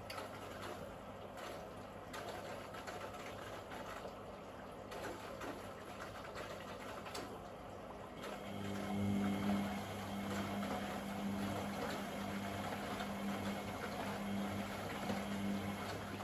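Privileg Sensation 952 S top-loading washing machine running mid-cycle: water swishing in the drum, with a low motor hum that starts about halfway through and pulses gently.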